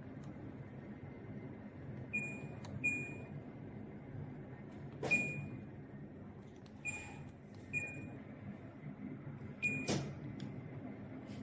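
Samsung mini split air conditioner's indoor unit giving six short single beeps at one pitch, a second or more apart, as it acknowledges remote control commands. A few sharp clicks fall among them, two close together near the end, over a steady low hum.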